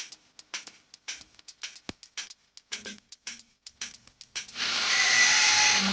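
Quick sharp clicks or taps, about three or four a second. About four and a half seconds in, an electric motor or power tool starts and runs loud and steady with a whine.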